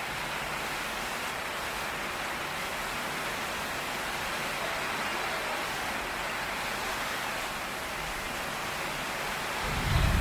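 Heavy rain pouring steadily. Near the end a low rumble of thunder sets in and becomes the loudest sound.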